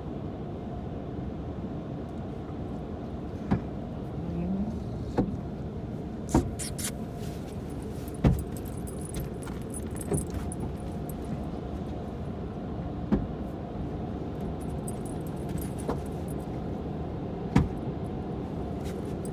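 Steady low drone of a car idling, heard from inside the cabin, with sharp clicks and light jingling every second or few.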